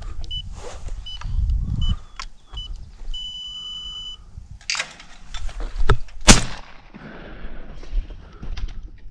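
A few short electronic beeps, then a steady beep about a second long. A few seconds later come sharp cracks, the loudest about six seconds in, which are the 16-gauge Browning Citori over-under shotgun firing at clays.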